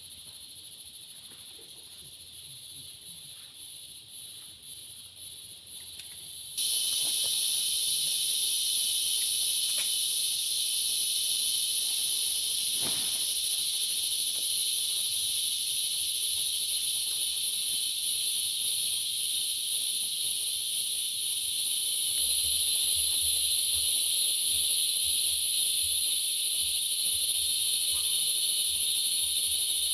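Steady high-pitched chorus of forest insects, buzzing without a break. It becomes abruptly much louder about a third of the way in.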